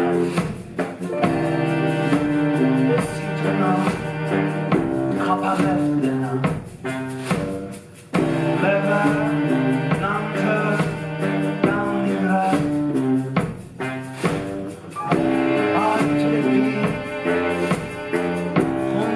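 Live ensemble music: pitched instruments playing a stepwise melodic line over drums, with a brief drop in level about seven seconds in.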